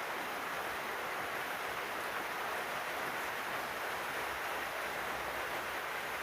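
Heavy rain pouring steadily, an even hiss. A faint low rumble joins in about four seconds in.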